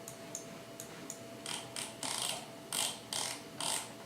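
Computer mouse scroll wheel being spun in quick flicks, a ratchety clicking in short bursts about twice a second, starting about a second and a half in after a few single clicks.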